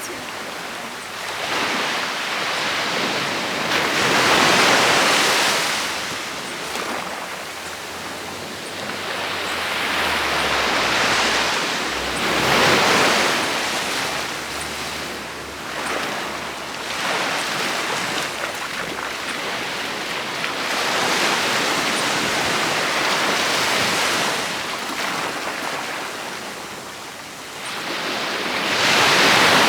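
Ocean waves breaking on a sandy beach, the surf rising and falling in repeated surges several seconds apart.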